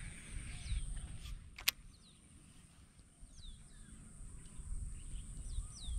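Wind rumbling on the microphone under a steady high-pitched whine, with two pairs of short, falling bird chirps, the first about three seconds in and the second near the end. One sharp click about a second and a half in.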